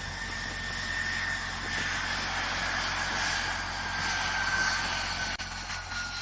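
Jet aircraft engine running with a steady rush and a high whine that slowly falls in pitch. There is a brief click about five seconds in.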